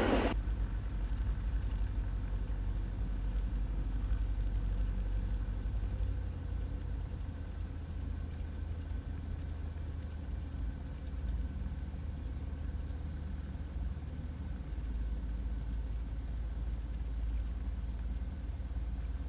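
Cessna 172's piston engine running at low taxi power: a steady low drone heard in the cockpit, with a faint steady high-pitched whine. There is a short burst of noise right at the start.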